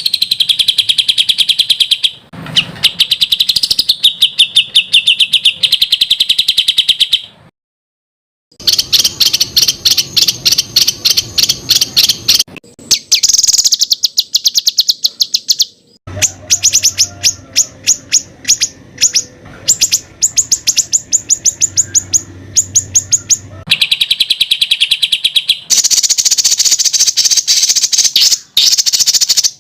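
Songbird song for tutoring competition birds: dense trains of rapid, sharp repeated notes ('tembakan'), in runs of several seconds with brief breaks, and a full stop of about a second near 8 s in.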